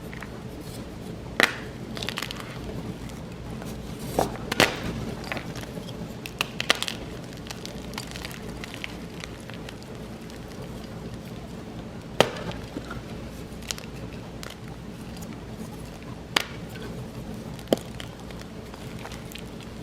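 Blocks of gym chalk being snapped and crushed: sharp cracks every couple of seconds, some followed by a short crumbly crunch.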